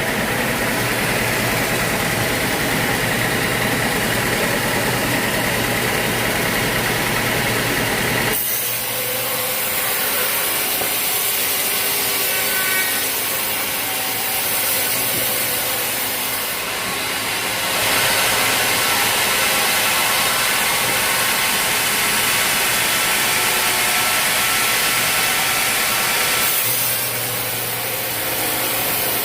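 Sawmill engine running, then about eight seconds in a saw blade bites into a log and cuts through it with a steady, hissing sawing sound over the engine.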